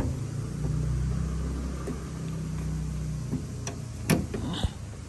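1995 Tata Sierra's turbo-diesel engine idling with a steady low hum that fades after about three and a half seconds. A few sharp clicks come near the end.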